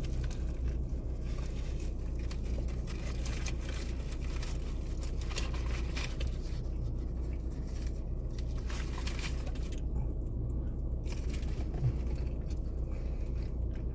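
Biting into and chewing a crispy fried chicken sandwich, with scattered crunches and rustles, over a steady low hum inside a car.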